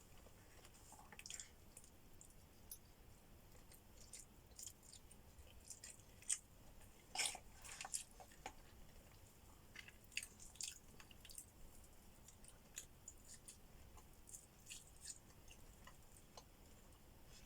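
Faint chewing and mouth sounds of someone eating, with scattered soft smacks and clicks at irregular intervals.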